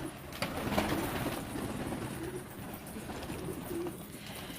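Domestic pigeons cooing, low repeated coos, with a few short clicks near the start.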